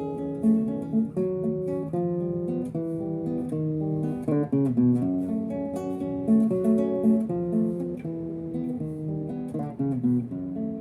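Acoustic guitar playing an instrumental passage: a run of plucked notes changing several times a second, with no singing.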